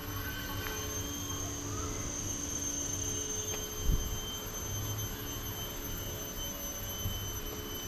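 Steady high-pitched drone of insects, held on a few unchanging pitches, over a low rumble, with a single short thump about four seconds in.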